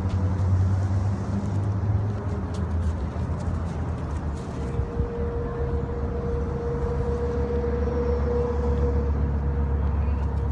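Vehicle engine idling steadily with a low hum. A steady higher-pitched hum joins it about four and a half seconds in.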